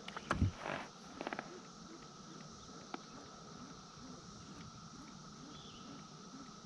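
A sharp click and a low thump in the first half second, then a quick run of four ticks at about a second in, from handling gear on a kayak. After that, a steady high insect drone, with faint bird chirps near the end.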